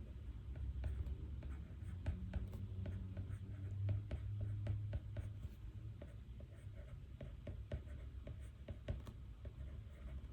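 Pen writing on paper: many short, irregular scratching strokes over a steady low hum.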